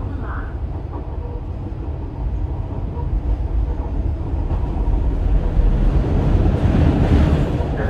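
Running sound inside a Tokyo Metro 10000 series electric car with Mitsubishi IGBT-VVVF control: a steady low rumble of wheels and running gear on the rails. It grows louder through the second half, with a hiss building near the end.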